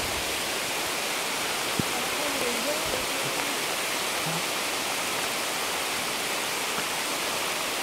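Heavy rain falling steadily through the forest canopy onto leaves and the forest floor, an even hiss.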